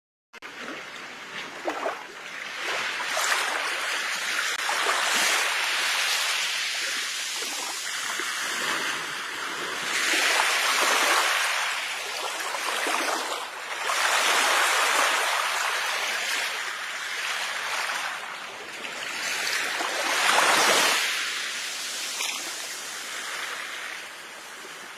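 Ocean waves breaking and washing up a shore, swelling and falling back every four to six seconds, after a split-second cut-out at the very start.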